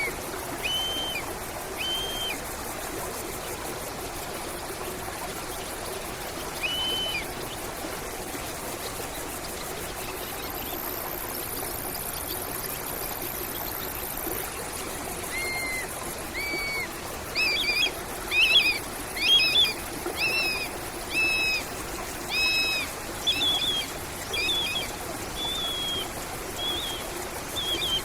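Stream water trickling steadily, with a songbird calling over it: a few single whistled notes in the first seconds, then from about halfway a quick series of repeated, bending calls that are loudest about two-thirds of the way through.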